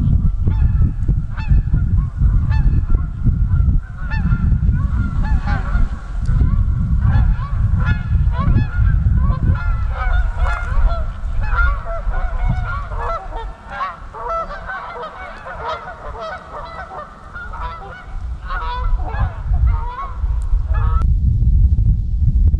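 A large flock of waterfowl honking, many overlapping calls at once, cutting off abruptly near the end. A heavy low rumble runs underneath.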